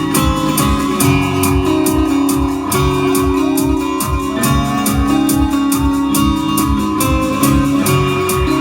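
Live band music: electric guitar over a steady drum beat, with guitar notes sliding upward in pitch a few times.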